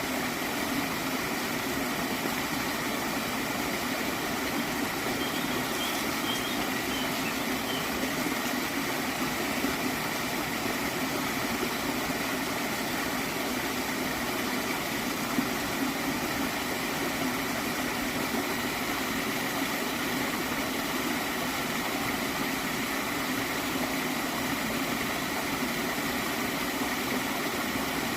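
Water in a stream flowing and gurgling steadily, with no change in level.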